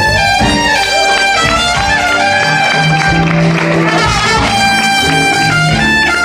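Live jazz orchestra playing, with brass prominent, held chords and notes changing over a steady bass line.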